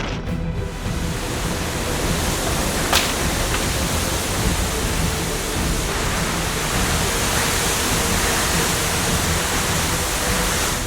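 A loud, even rushing noise of a storm, steady throughout, with a single sharp click about three seconds in; background music sits faintly underneath.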